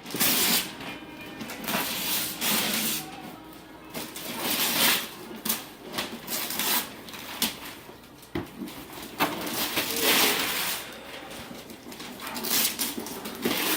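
Wrapping paper rustling and tearing in repeated short rips as a present is unwrapped.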